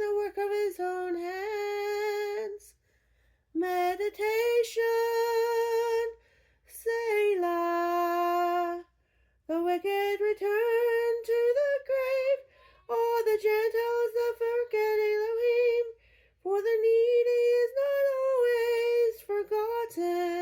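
A woman singing unaccompanied in a mezzo-soprano voice. She sings short phrases of two to three seconds, each ending on a held note, with brief silent breaths between them.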